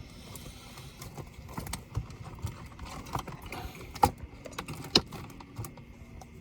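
Small laptop parts and tools being handled: irregular clicks and light metallic clatter, with two sharp clicks about four and five seconds in.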